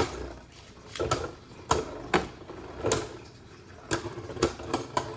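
Two Beyblade Burst spinning tops battling in a plastic stadium: sharp, irregular clacks as the tops hit each other, about eight in all.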